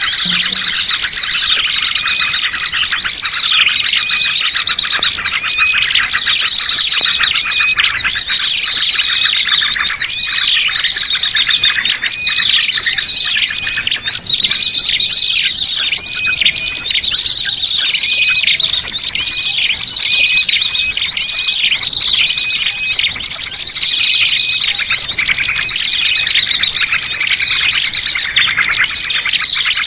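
A dense chorus of small birds chirping and trilling in fast, repeated phrases, loud and without a break: a bird-trapping lure call.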